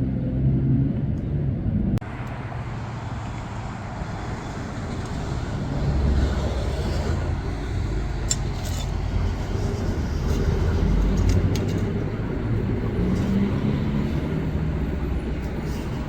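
Steady low outdoor rumble like distant traffic, which changes abruptly about two seconds in, with a few faint clicks about halfway through.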